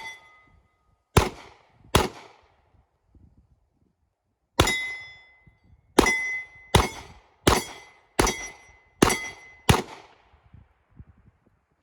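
Nine gunshots on a shooting range, loosely spaced: two about a second apart, then a pause of over two seconds, then seven in a quicker string less than a second apart. Several shots carry a short metallic ring, like steel targets being hit.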